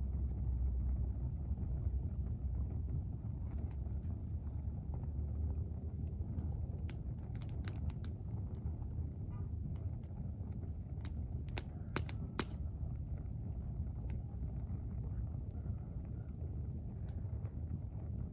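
Campfire crackling: scattered sharp pops and snaps of burning wood, thickest around the middle, over a steady low rumble.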